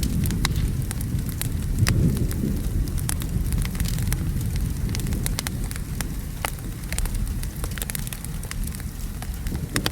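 Wood fire crackling with frequent sharp pops, over steady rain and a low rolling rumble of distant thunder that swells about two seconds in.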